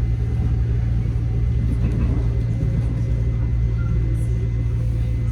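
Metro-North M7A electric commuter train running, heard from inside the car: a steady low rumble with faint constant whining tones above it.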